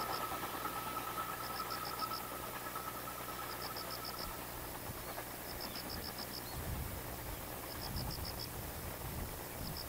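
A freight train receding into the distance: its faint running noise and a steady whine fade out about four seconds in. An insect keeps chirping in short pulsed trills about every two seconds.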